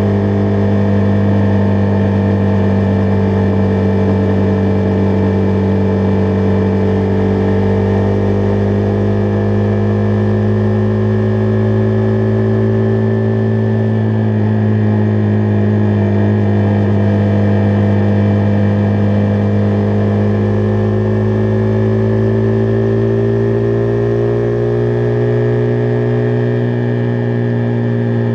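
Husqvarna Vitpilen 401's single-cylinder engine running at steady cruising revs under way, its pitch sagging a little through the middle and rising again near the end.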